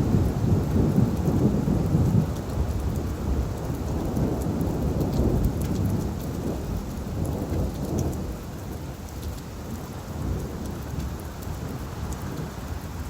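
Steady rain on leaves with a roll of thunder: a low rumble, loudest at the start, fades over several seconds beneath the patter of drops.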